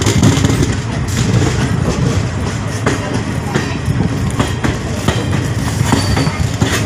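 Running noise of an express passenger train heard from an open coach door as it rolls through a station without stopping: a steady rumble of wheels on rails with irregular sharp clicks over rail joints.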